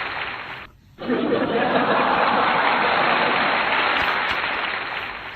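A dense wash of people's voices and laughter. It fades out just under a second in, then starts again after a short gap.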